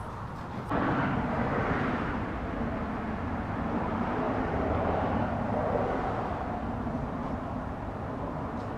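A car running steadily with a low hum and a rushing noise, coming in suddenly about a second in.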